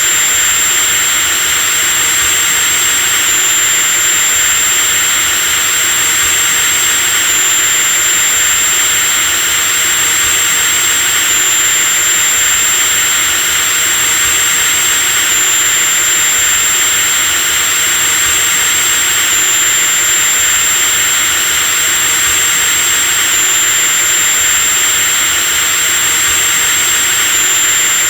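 Electric drill motor running continuously at a steady speed: a loud, high whine over a steady rush of noise, the whine stepping slightly in pitch about every four seconds.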